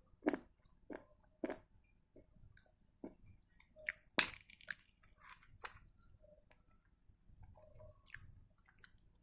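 Dry edible clay (butter grey) being bitten and crunched between the teeth, close to the microphone. A run of sharp crunches comes about every half second, then louder bites about four seconds in, then softer chewing, with one more crunch near the end.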